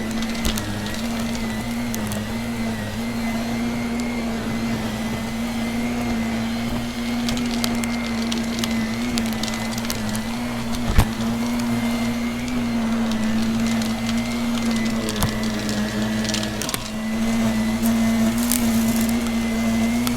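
Vacuum cleaner running steadily with a motor hum that wavers slightly in pitch, with scattered crackles of crunchy debris being sucked up and one sharp click about eleven seconds in.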